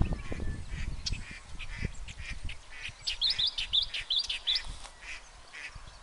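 Several birds calling, with short harsh squawks throughout. A quick run of about six high chirps, each rising and falling, comes between about three and four and a half seconds in.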